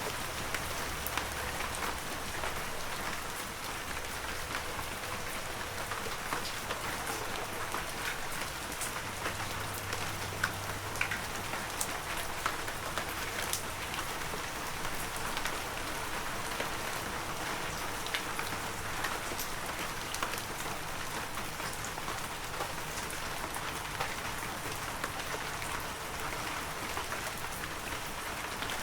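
Heavy rain falling steadily: a dense, even hiss with many separate drops tapping through it.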